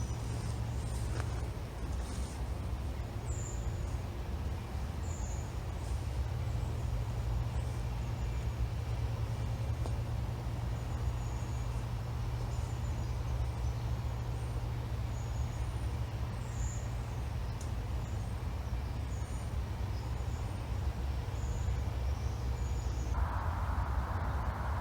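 Steady low rumble of outdoor background noise, with small birds giving short, high chirps on and off throughout. A broader rustling noise comes in near the end.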